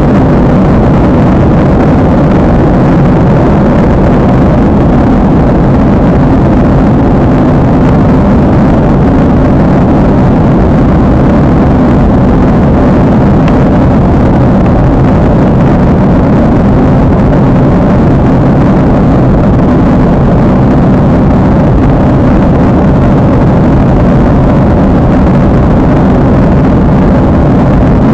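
Loud, steady jet airliner noise heard from inside the passenger cabin, a constant low roar of engines and airflow with no change in pitch.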